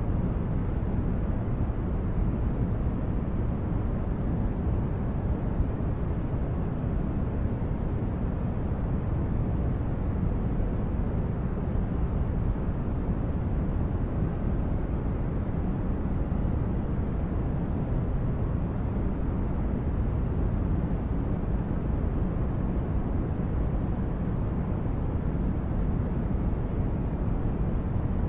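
Synthesized sci-fi spaceship ambience: a steady, deep brown-noise drone, heaviest in the bass, with no changes or distinct events.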